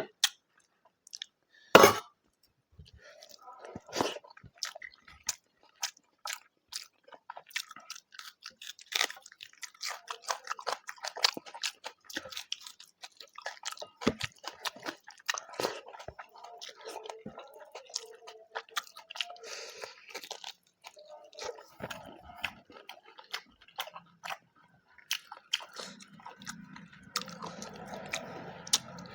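Close-miked eating: a person chewing mouthfuls of rice and mutton curry, with wet chewing and crunching, many small irregular mouth clicks, and one sharp click about two seconds in.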